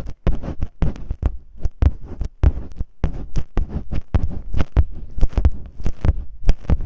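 Masking tape rubbed and crinkled right against the microphone, ear-cleaning style. It makes a quick irregular run of crackly, scratchy strokes with deep muffled thumps.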